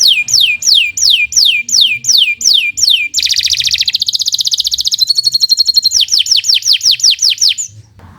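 Domestic canary singing a long, unbroken song: a run of falling whistled notes about three a second, then fast rolling trills for a couple of seconds, then the falling whistles again before a short break near the end.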